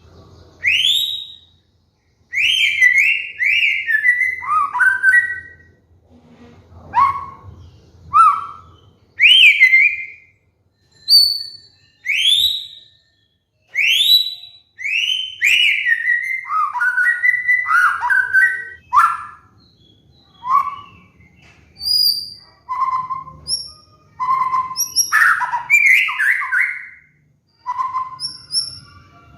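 White-rumped shama singing: a long run of loud, varied whistled phrases with quick upward sweeps and falling notes, each phrase separated by a short pause.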